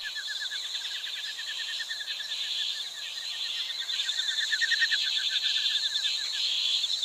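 Insect and bird chorus: a steady high buzz with fast, repeating chirping trills that grow brighter about four seconds in.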